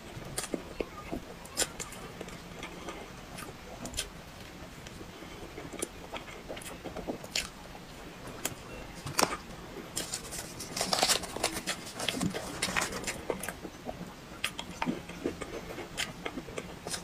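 Close-up mouth sounds of a person eating soft cream-filled chocolate cake: wet clicks, smacks and chewing, coming irregularly. They come thickest and loudest about two-thirds of the way through.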